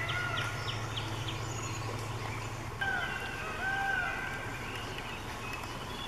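Wild birds calling in a forest: quick falling chirps at first, then arching whistled notes about three and four seconds in, over a steady low hum.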